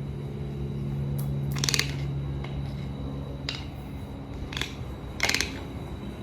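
A toucan's bill handling a small ball: five sharp clicks and short clattering rattles, the loudest about a second and a half in and again near the end, over a steady low hum.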